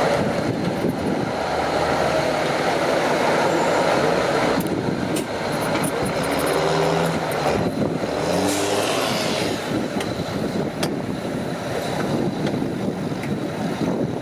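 Heavy off-road truck engine working under load, its pitch rising and falling around the middle as it revs, with a few sharp knocks.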